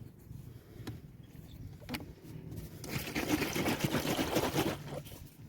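A mixture of engine oil and diesel being poured from a bottle into a motorcycle engine's oil filler to flush it, a gurgling pour that starts about 3 seconds in and lasts nearly two seconds, after a few light clicks.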